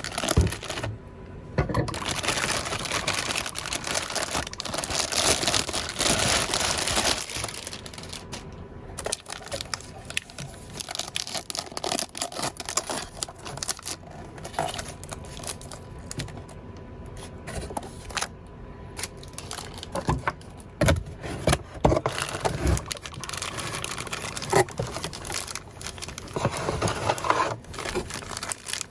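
Packaging being handled as a car stereo head unit is unboxed: crinkling, rustling and scraping, dense for the first several seconds, then sparser with scattered light knocks and clicks.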